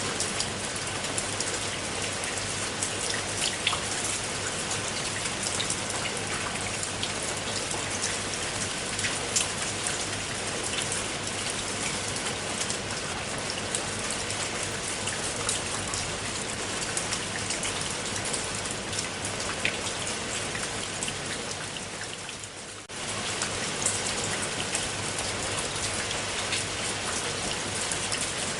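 Steady rain falling, with many separate drops ticking sharply on a surface close by. The sound dips briefly about 22 seconds in and comes straight back.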